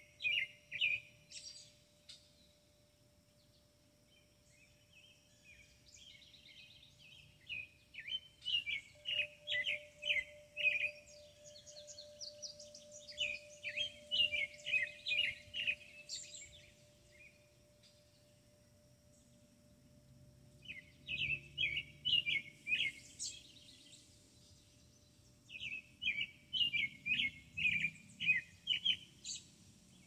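A songbird sings repeated phrases of quick, high notes, in about five bursts of a few seconds each with pauses between. A faint steady tone runs underneath.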